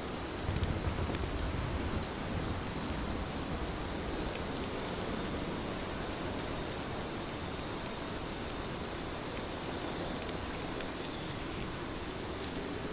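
Heavy rain falling steadily, with a brief low rumble in the first couple of seconds.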